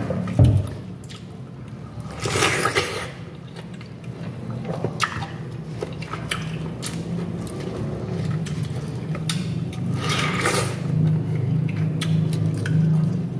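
Close-up eating sounds of fresh, juicy pineapple: wet chewing and mouth clicks, with two longer juicy bites about two seconds in and near ten seconds, over a steady low hum. There is a short dull thump right at the start.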